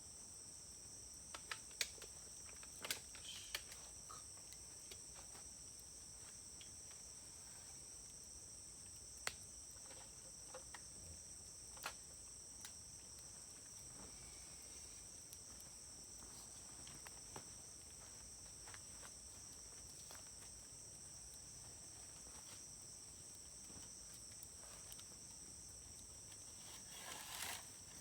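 Wood fire burning with scattered sharp crackles and pops, a few close together, over a steady high-pitched insect drone.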